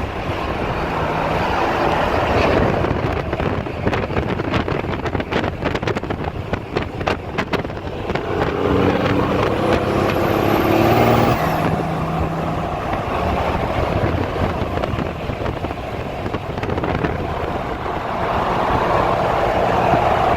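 A motor vehicle's engine running as it drives, with a rapid rattle of clicks between about 3 and 8 seconds in and the engine note rising around 9 to 11 seconds in.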